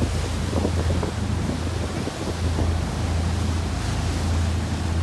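Cruise boat's engine running with a steady low drone, under wind buffeting the microphone and the wash of lake water against the moving boat.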